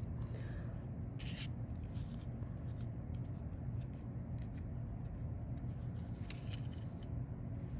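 Faint, scattered rustles and light taps of paper being handled, over a steady low hum.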